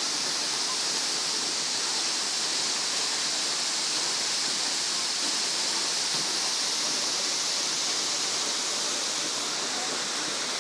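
Waterfall: a steady, unbroken rush of falling water, with most of its energy in the hiss.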